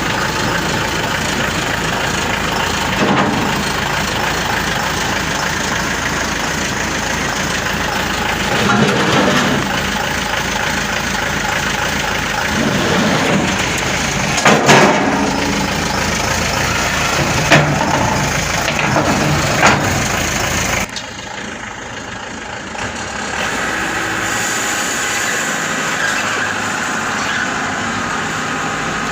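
Maxxi Bimo 102 SS rice combine harvester's engine running loud and steady, revving up and down several times. About 21 seconds in it drops abruptly to a quieter, steady run.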